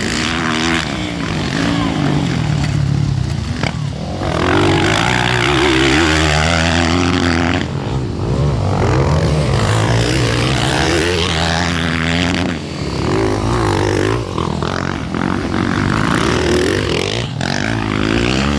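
Motocross dirt bikes racing, their engines revving up and dropping off over and over, several bikes at once.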